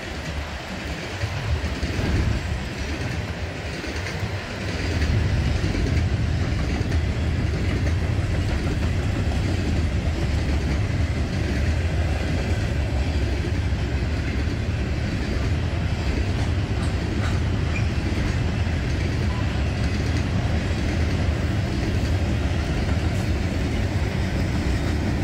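Freight train of Herzog rock hopper cars rolling past, a steady rumble of steel wheels on the rails that grows louder about five seconds in and then holds.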